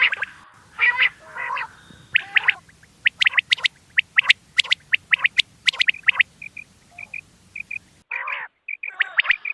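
Recorded quail calls played as a hunting lure: quick series of short, sharp repeated notes, thinning to a few soft high pips, with an abrupt splice about eight seconds in where the low background hum cuts out and the calls start again.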